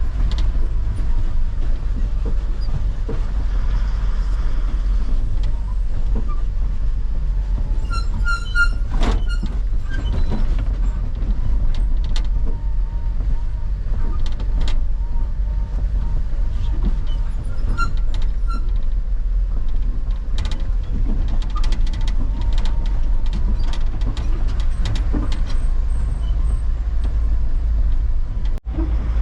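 Truck running on a road: a steady low engine and road rumble with scattered rattles and knocks.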